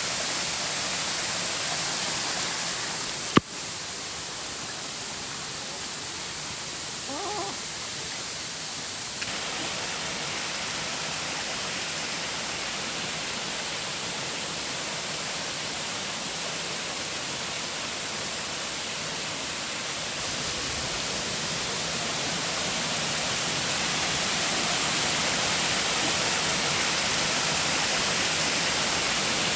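Waterfall cascade rushing: a steady hiss of falling water. About three and a half seconds in there is a sharp click and the level drops, and it grows louder again over the last third.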